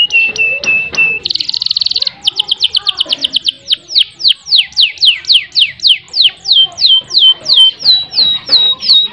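Domestic canary singing: quick trilled notes, a fast rattling roll about a second in, then a long run of quick downward-sliding whistles, about three a second.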